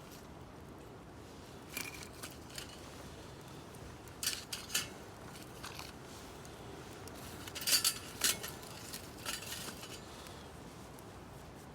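Metal cookware and utensils being handled: scattered light clinks and clicks, a few at a time, with the busiest cluster about eight seconds in.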